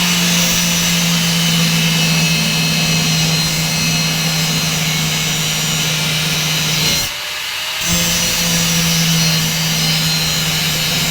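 A power tool running steadily with a constant hum and hiss, stopping for a moment about seven seconds in and starting again.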